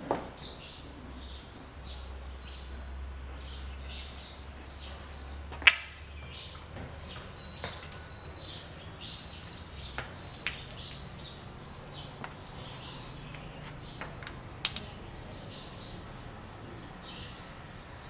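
Small birds chirping in quick repeated short high calls throughout, with one sharp click about six seconds in and a few fainter clicks later.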